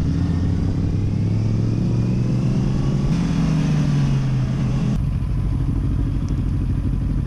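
Honda CB650R's inline-four engine running under way. Its note steps up in pitch about three seconds in and drops back about five seconds in, over a steady rushing hiss.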